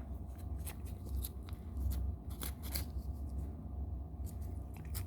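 A Russian Blue cat licking and biting at a Churu treat tube, making irregular quick wet clicks and smacks.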